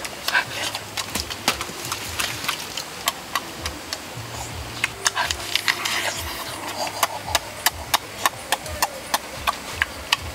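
A person eating a juicy fruit close to the microphone: wet chewing and lip-smacking, heard as a steady run of short clicks that come faster in the second half.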